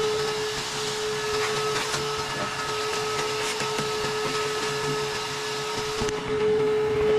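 Vacuum running steadily over a steady mid-pitched hum. The vacuum's hiss cuts off about six seconds in, and the hum carries on alone.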